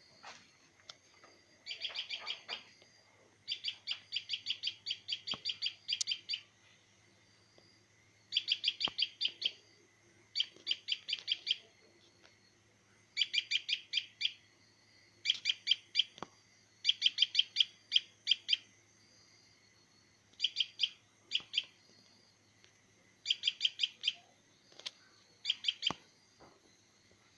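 A small bird chirping in rapid bursts of high, quick notes, each run lasting about a second and repeating every second or two.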